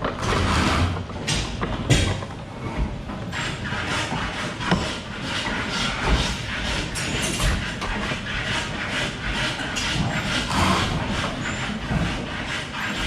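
Hand-tool woodworking: irregular scraping and cutting on wood, broken by frequent knocks and clunks, with no steady rhythm.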